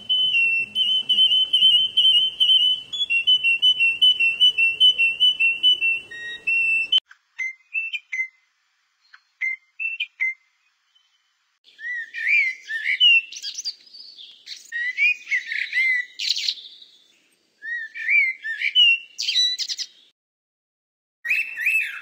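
A sequence of recorded songbird songs and calls. First a canary sings a rapid, high, repeated trill that breaks into scattered short chirps. From about twelve seconds in, a Eurasian blackbird sings a varied song of gliding notes in phrases, and a cockatiel starts calling near the end.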